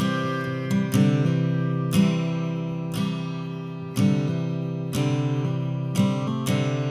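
Acoustic guitar music: chords strummed about once a second, each ringing out and fading before the next.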